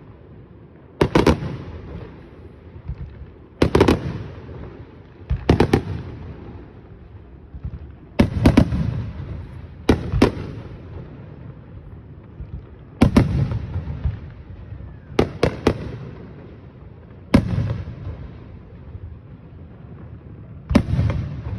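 Aerial fireworks shells bursting: about nine loud bangs two to three seconds apart, some in quick pairs, each trailing off in a fading echo.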